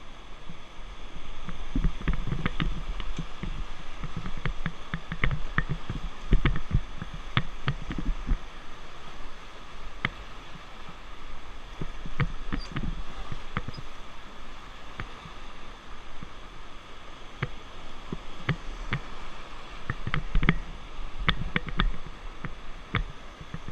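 River water rushing and splashing around a raft, with many short sharp knocks and splashes scattered throughout and low rumbling thumps.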